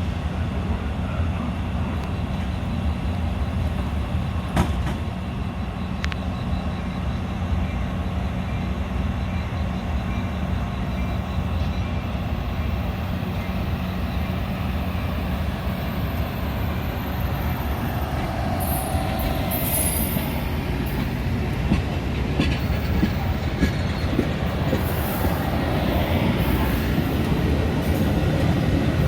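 Metra diesel commuter train at the platform, its engine giving a steady low drone. From about two-thirds of the way through, intermittent high-pitched squeals and hissing join in.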